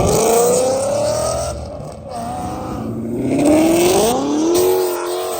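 A car's engine and exhaust running hard under acceleration, rising in pitch, dropping briefly about two seconds in as it shifts gear, then rising again and shifting once more near the end.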